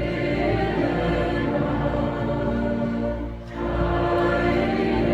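Church choir singing long held chords in two phrases, with a brief break about three and a half seconds in.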